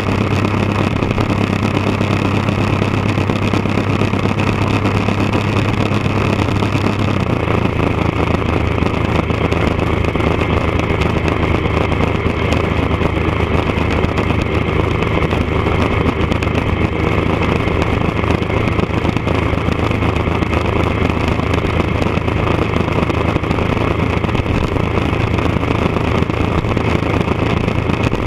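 Triumph Daytona 955i's fuel-injected inline three-cylinder engine idling steadily through a D&D aftermarket exhaust. Its note steps down a little about seven seconds in, then holds.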